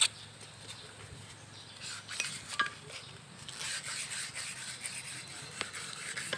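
Small metal parts clicking and scraping as an alternator is handled during reassembly, with one sharp click at the start and a few lighter clicks and rubs after it.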